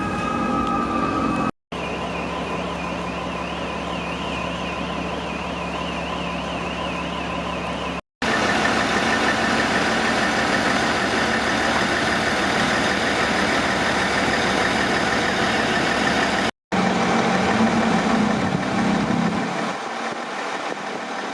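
Fire trucks' sirens in a run of short takes. A siren tone falls away, then a fast warbling yelp, then a long steady high siren wail with truck engines running underneath. Near the end the sirens stop and a fire truck's engine idles.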